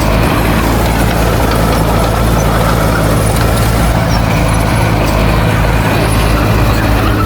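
Heavy diesel engine of earthmoving equipment running steadily, with an even low drone throughout.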